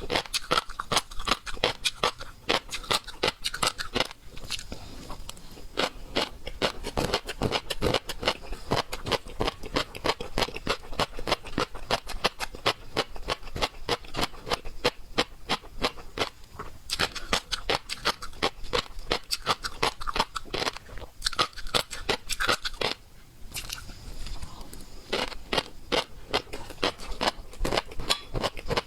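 Close-up eating sounds of seafood being chewed and crunched: a dense run of rapid crackly clicks.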